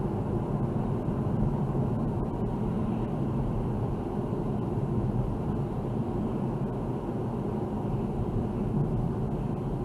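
Steady rumble of a car driving, with road and tyre noise and engine.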